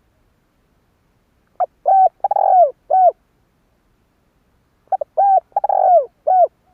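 Spotted dove cooing: two song phrases about three seconds apart, each a short lead note followed by three low coos, the third drawn out and falling in pitch.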